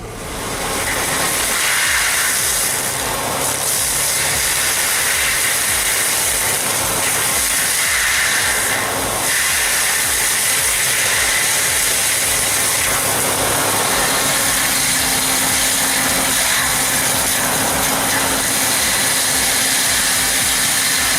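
Heavy diesel forestry machinery running steadily, with a loud, even hiss-like noise and a faint steady hum underneath.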